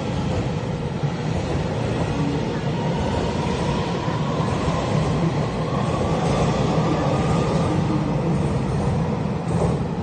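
Taiwan Railways EMU3000 electric express train pulling out and passing along an underground platform: a steady, loud rumble of the cars rolling past, with a faint whine that rises slowly as it gathers speed.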